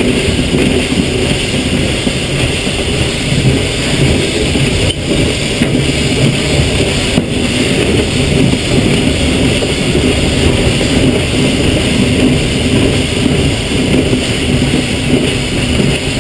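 Steady rumble and rattle of a narrow-gauge steam train rolling along the track, heard close to the locomotive, with no distinct exhaust beats.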